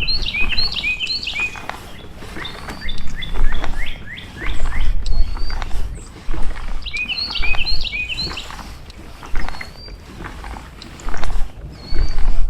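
Songbirds singing: a quick run of rising chirps comes twice, at the start and about seven seconds in, with short whistled notes scattered between. Low rumbling bursts come and go underneath and are the loudest thing heard.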